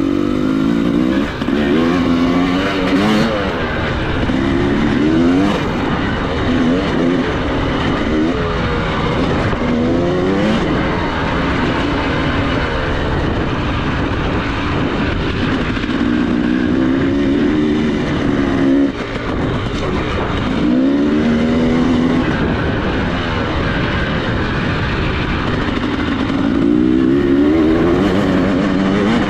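Dirt bike engine being ridden around a motocross track, revving up and falling back over and over, its pitch rising and dropping every second or two.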